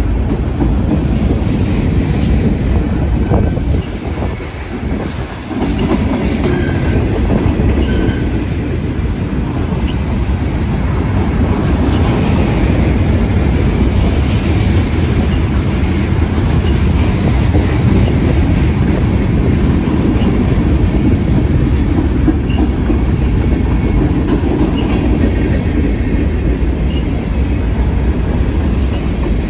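Freight train cars rolling past close by: steel wheels rumbling and clacking over the rail joints, with a brief dip in loudness about four seconds in.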